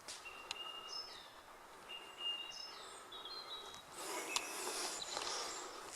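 A bird singing in woodland, a run of short, thin whistled notes held at a few different pitches. In the last two seconds a louder rustling with a click or two comes in over it.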